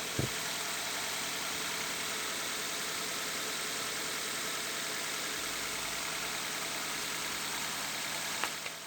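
Car engine idling steadily, with no belt squeal: its two drive belts have just been dusted with baby powder to stop them squeaking. A short click sounds just after the start and again near the end.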